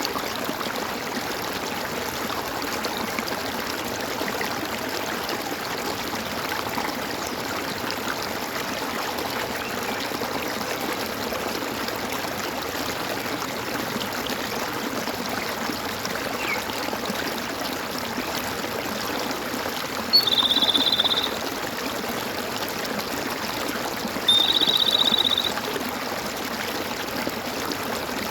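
Stream water gurgling and trickling steadily. About two thirds of the way in, an animal gives two short, high trilled calls about four seconds apart, each lasting about a second and louder than the water.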